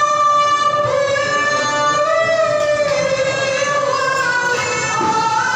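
A qari's high, powerful voice reciting the Quran in one long melodic phrase, holding notes and bending slowly up and down in pitch, amplified through a Toa horn loudspeaker.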